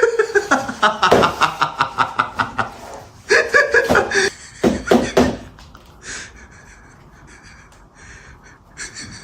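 A person laughing hard in rapid pulses, several a second, with a second round of loud bursts a few seconds in, then trailing off into quieter breathy panting.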